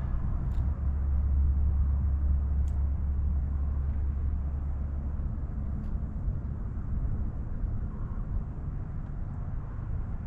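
Freight train passing: a low, steady diesel locomotive drone, strongest in the first few seconds and then easing, over the continuous rumble of rolling grain cars.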